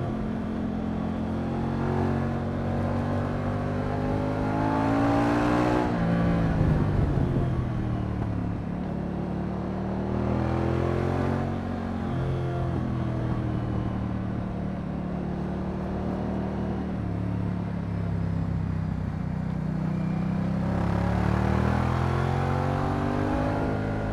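Moto Guzzi V100 Mandello's transverse V-twin engine under way. It climbs in revs a few seconds in, falls back sharply around six seconds, rises again briefly near ten seconds, holds steady for a while, then builds again in the last few seconds.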